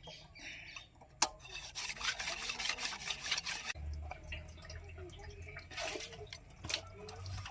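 Metal-on-metal scraping and clicking from hand work on a tractor engine piston and its rings: a sharp click about a second in, a couple of seconds of rapid scraping, then scattered light clicks.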